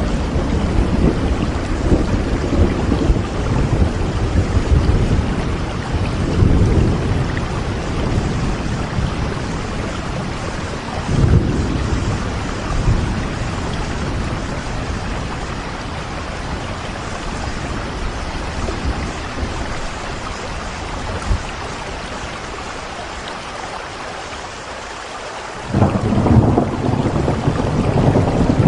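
Steady rain with low rumbles of thunder. The rumbling dies down for a few seconds and comes back suddenly near the end.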